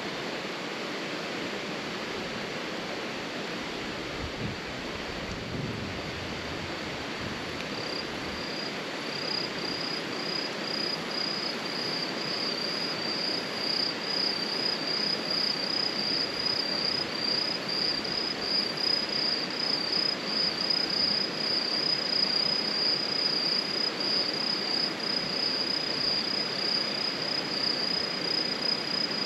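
Steady rushing background noise, with an insect's high-pitched, rapidly pulsing chirp starting about eight seconds in and growing louder.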